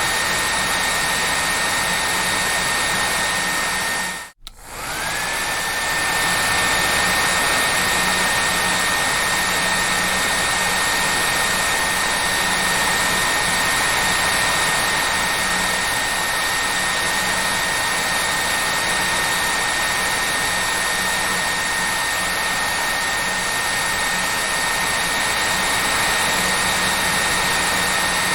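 Hair dryer running steadily as white noise, a rushing blow with a steady high whine. About four seconds in it cuts out for an instant, then comes back, the whine rising back up to its pitch.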